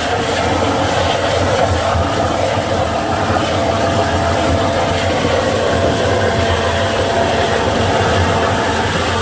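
Vacuum truck suction and high-pressure wash equipment running together during hydro excavation: a loud, steady machine drone with a low hum and a faint whine that comes through more clearly about six seconds in.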